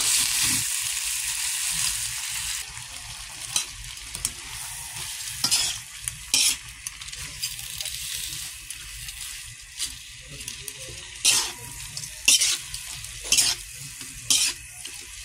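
Head-on shrimp with garlic and onion sizzling in hot oil in a pan, stirred with a spatula that scrapes and knocks against the pan several times. The sizzle is loudest for the first two seconds or so, then settles to a steadier, quieter hiss.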